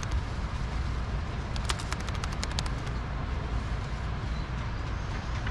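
Running noise of a JR N700S-8000 Shinkansen heard from inside the passenger cabin: a steady low rumble, with a run of light clicks around two seconds in.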